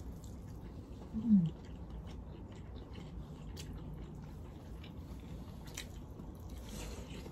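Close-up chewing and mouth clicks of two people eating chicken biryani by hand. About a second in there is one short, low, falling 'mm' hum.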